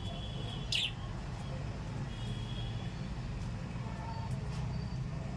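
A small parrot gives one sharp, loud chirp just under a second in, with fainter chirping a few times after, over a steady low background rumble.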